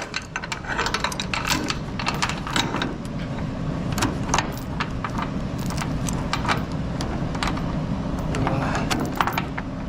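Steel securement chain clinking and rattling in irregular metallic clicks as it is handled and wrapped around a cable reel, over a steady low rumble.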